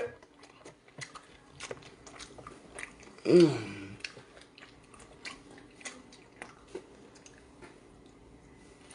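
Wet chewing, smacking and sucking sounds of a man eating a raw octopus tentacle, in scattered short clicks. A brief vocal sound falling in pitch comes about three seconds in.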